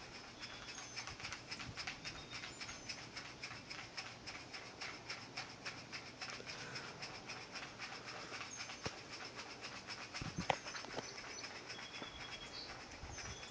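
Faint outdoor ambience with no thunder: a rapid, even ticking of about five a second that fades out about nine seconds in, a few thin high chirps, and one sharp click about ten and a half seconds in.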